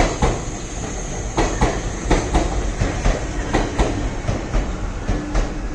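Meitetsu electric train passing close by: a steady low rumble with a quick, uneven run of sharp clacks as its wheels cross rail joints, and a thin high whine that fades out about halfway through.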